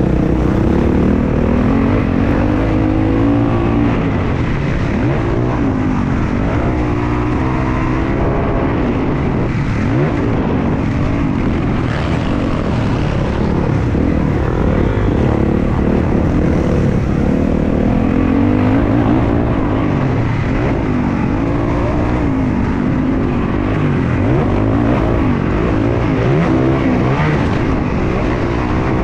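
Several motocross bikes' engines revving up and down around the track, their pitch rising and falling over and over as they accelerate and shift, several at once.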